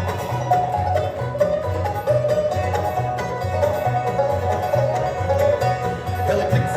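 Live bluegrass band playing an instrumental passage, with rapid banjo picking over a steady bass.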